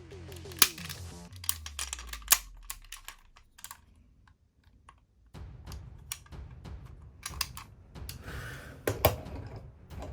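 Sharp irregular clicks and snaps of hard plastic parts of a DX Engine-O combining robot toy being handled and fitted together, with a quiet pause around the middle.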